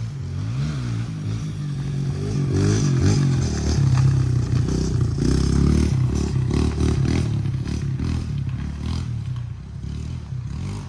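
Honda CRF150R's single-cylinder four-stroke engine revving up and down as the dirt bike is ridden along a trail, with scattered knocks and clatter over the rough ground.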